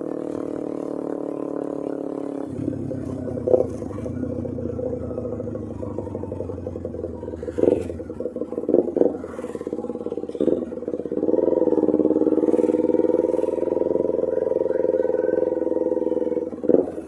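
Kawasaki Ninja 250R's carbureted parallel-twin engine running through a loud Austin Racing aftermarket exhaust while riding, its note changing about two seconds in. It holds steady, then goes louder and steady from about eleven seconds. A few short sharp bursts come through around a third and halfway in.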